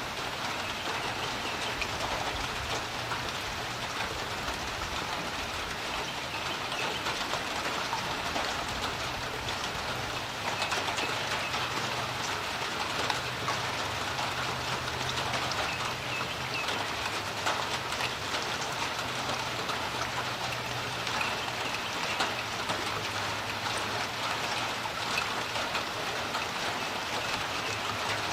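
Steady rain falling on a creek, a dense even hiss flecked with many small drop ticks. A faint low hum runs underneath, fading in and out.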